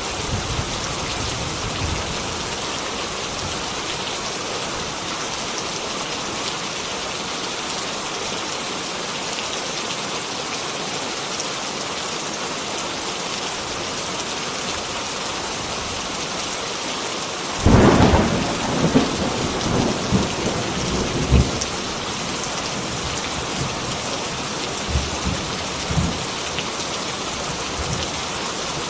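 Heavy rain falling steadily. About eighteen seconds in a sudden loud thunderclap breaks out and rumbles on for three or four seconds, with a couple of fainter rumbles a few seconds later.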